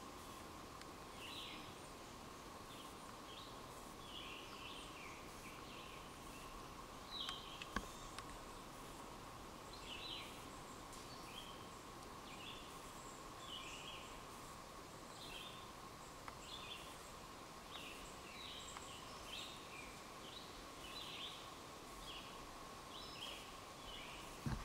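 Woodland birds chirping and singing, faint, in short notes repeated over and over, over a steady faint hum.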